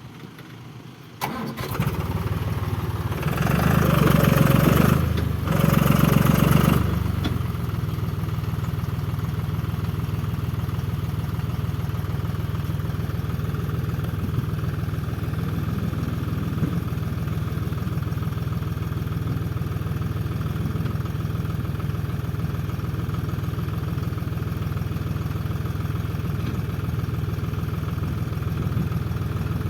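Tractor engine starting about a second in, revved twice, then running steadily at idle.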